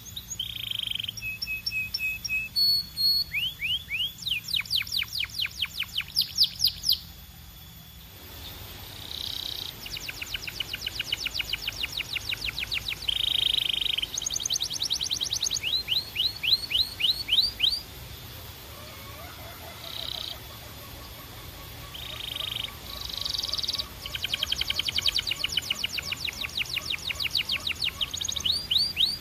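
Belgian canary singing: long rapid trills of quick rising notes alternating with short held, buzzy notes, with a brief lull near the start.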